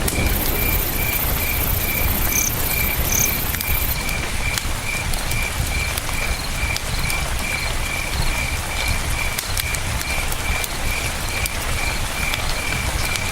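Crickets chirping in a steady, high-pitched pulse about three times a second, over the steady rush of a river, with small scattered crackles from a campfire.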